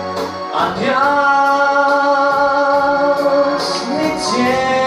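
Pop song with a sung vocal holding long, gliding notes over a sustained accompaniment and a steady beat of light high ticks. A new sung line begins near the end.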